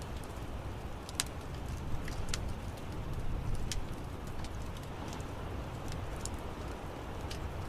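Wood fire in an outdoor fireplace crackling: irregular sharp pops and snaps over a steady low rumble of the burning fire.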